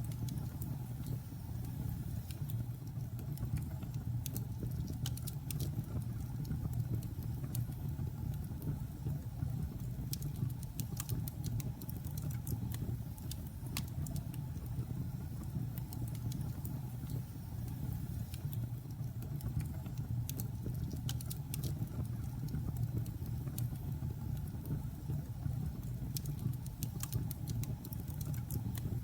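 Logs burning in a fireplace: a steady low rumble of the flames with scattered sharp crackles and pops from the wood.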